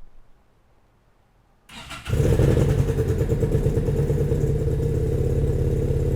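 The V-twin engine of an FKM Victorino scrambler motorcycle starts about two seconds in, catching after a brief crank, then runs steadily with a fast even pulse through its stock exhaust.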